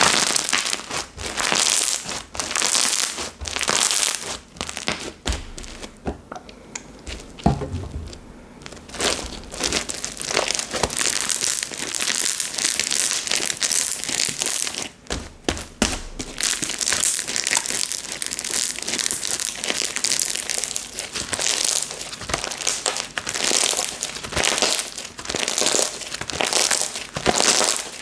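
Hands squeezing and stretching slime, giving a dense run of sticky crackles and small clicks, which ease off briefly about a quarter of the way through.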